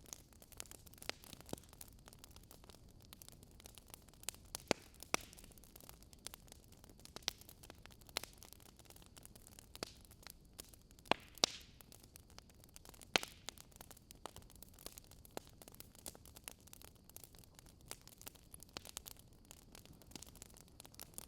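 Wood fire burning in a fireplace: irregular sharp crackles and pops over a soft hiss, with a few louder pops about eleven and thirteen seconds in.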